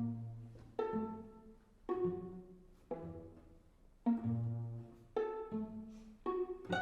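String quartet playing: plucked notes sound roughly once a second and die away, over held low notes.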